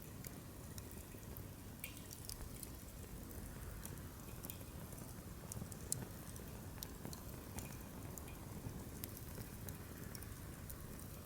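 Wood fire crackling, with frequent sharp pops and snaps over a low steady rumble of the flames. The loudest pop comes about six seconds in.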